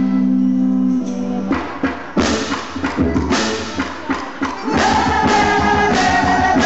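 Live São João quadrilha music: a held chord for the first second, then a run of sharp drum hits, and from about five seconds in a voice singing over the band.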